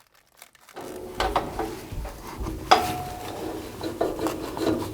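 Clamps being set against glued-up wooden boards: irregular clicks, knocks and scraping of metal on wood, starting about a second in, with one short metallic ring near the three-second mark.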